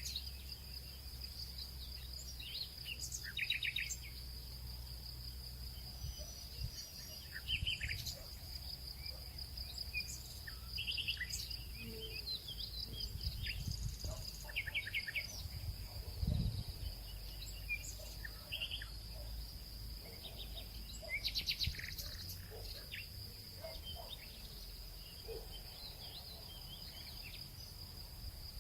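Nature ambience: a steady, high-pitched cricket trill with scattered short bird chirps over a low rumble. There is a soft low thump about midway.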